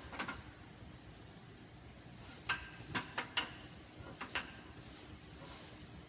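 Sharp metallic knocks with a short ring, one at the start and then a quick cluster of about six between two and a half and four and a half seconds in: a motorcycle exhaust being struck and worked to free it from a 1982 Honda CM450E.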